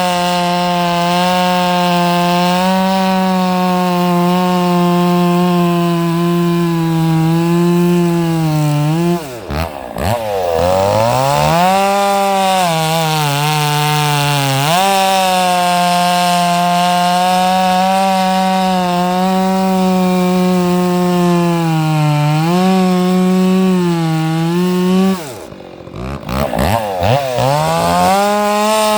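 Stihl 064 two-stroke chainsaw cutting wood at high revs. Twice, about nine seconds in and again near the end, the revs drop sharply and climb back.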